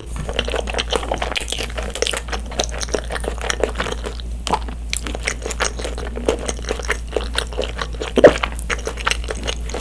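Close-miked chewing of a mouthful of cream pasta noodles: a steady run of small mouth clicks, with one louder smack about eight seconds in.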